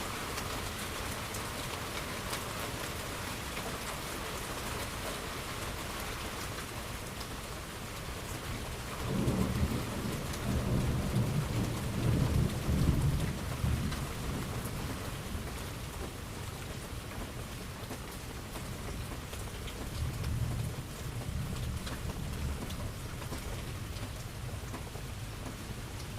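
Steady rain falling, with a long roll of thunder rumbling about a third of the way in and a shorter, fainter rumble later.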